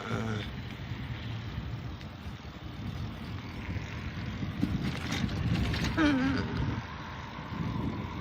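Car engine running with a steady low rumble, heard from inside the car. A short indistinct vocal sound comes about six seconds in.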